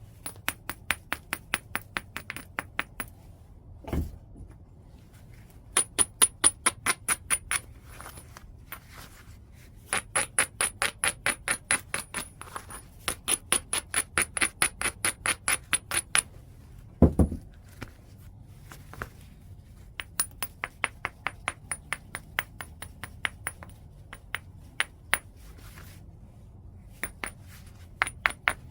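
White chert being worked in flintknapping: runs of quick, sharp clicking taps of a knapping tool against the stone edge, about four a second, with a high ring. Two duller, heavier knocks come about 4 seconds and 17 seconds in.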